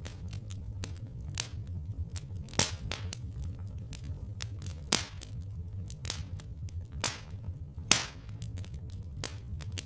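Wood fire crackling: irregular sharp pops and snaps, three of them louder than the rest, over a steady low rumble.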